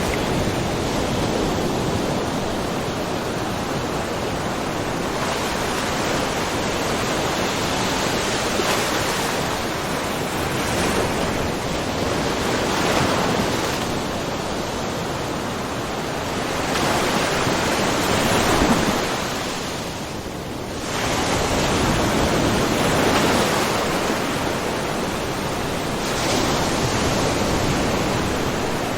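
Small ocean waves lapping and splashing on a rocky shore, a steady wash of water noise that swells and eases every few seconds. It dips briefly about two-thirds of the way through.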